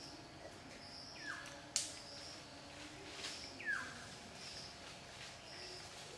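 Forest birds calling: a downward-sweeping call twice, a couple of seconds apart, over short high notes repeating about once a second. A single sharp click comes about two seconds in.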